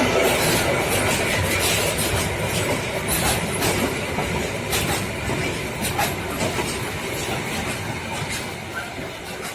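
Freight train rolling past, its wheels clicking irregularly over the rail joints, the sound slowly fading as it moves away.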